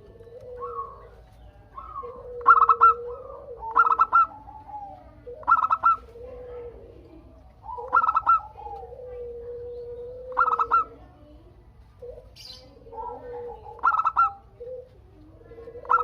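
Zebra dove (perkutut) cooing: a lower drawn-out coo broken by short bursts of quick staccato notes, repeated about every two seconds.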